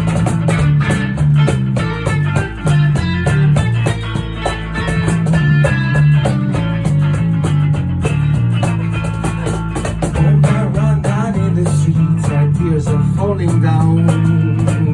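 Rock band playing an acoustic-style live arrangement with no singing: guitars strummed over a bass line.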